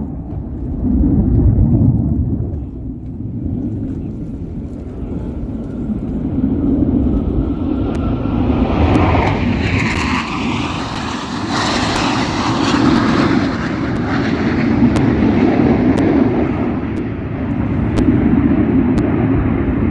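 Jet aircraft passing by: a broad roar that swells to a peak about halfway through and then fades over several seconds, over a steady low rumble.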